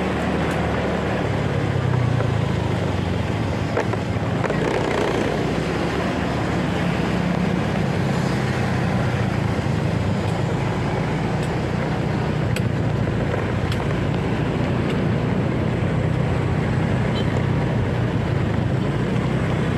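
Motorcycle engine running steadily while riding in traffic, with wind buffeting the microphone and road noise.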